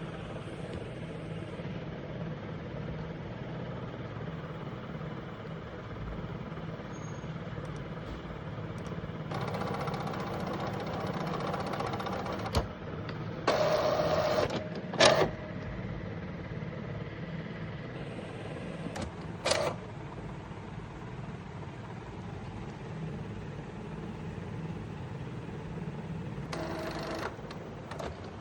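Epson inkjet printer mechanism running: a steady motor hum, with louder whirring spells of a second or two in the middle and a few sharp clicks.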